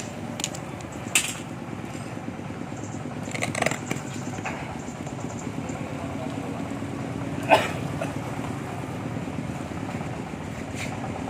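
5.5 hp submersible pump's electric motor running steadily on a bench test, with a few sharp knocks and clicks, the loudest about seven and a half seconds in. It runs smoothly, a sign the bearings are sound and only the seal leaks oil.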